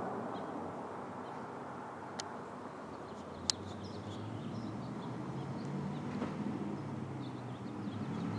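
The 1968 Plymouth Road Runner's 383 big-block V8, a low engine rumble heard from a distance that grows louder toward the end as the car approaches. A sharp click about three and a half seconds in, and faint bird chirps.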